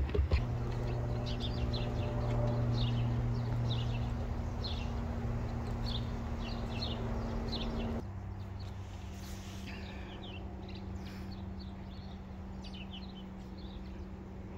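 Small birds chirping in short, high notes, repeated several times a second, over a steady low hum that drops in pitch and level about halfway through.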